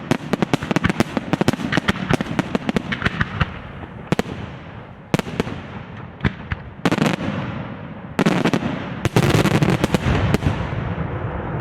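Aerial fireworks display: a fast volley of sharp bangs for the first few seconds, then scattered single bursts, then two dense stretches of rapid bursts near the end that die away in a rumbling echo.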